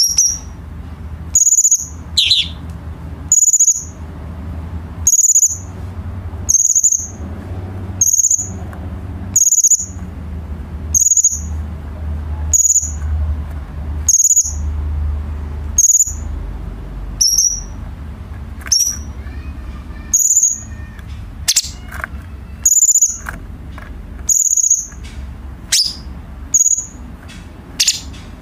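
A cucak cungkok songbird repeating one short, high call about every second and a half, over a steady low rumble.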